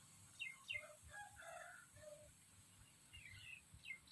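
Faint bird calls: short runs of quick, falling high chirps about half a second in and again near the end, with a few lower calls between them.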